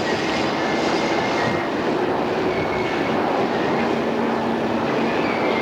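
Odakyu 2600-series electric train running, heard from inside the car: a steady rumble of wheels on rail with faint whining tones over it, from an old cassette tape recording.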